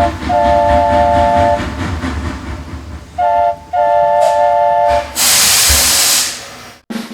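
Steam-train sound effect: a three-note chime whistle blows twice, each blast broken by a short stutter, over a steady chugging, then a loud release of hissing steam that cuts off suddenly.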